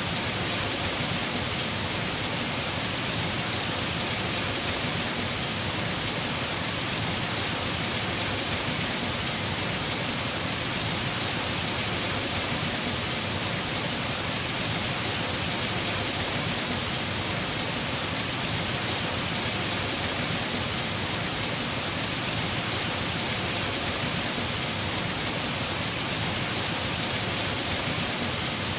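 Heavy rain falling steadily on a house roof, a constant even hiss with fine pattering drops.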